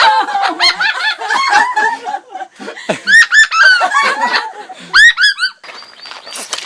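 Pet parrot chattering and squawking in quick runs of short whistled calls that swoop up and down, with cackles that sound like laughter; it drops away briefly near the end.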